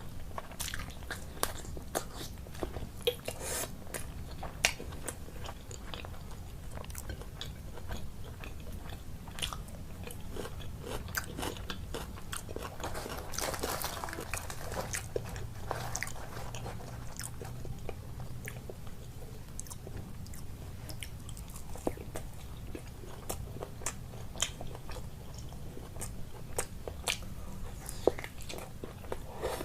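Close-miked mouth sounds of a person eating a meal of luchi and curries: biting and chewing with many small sharp clicks, busier about halfway through.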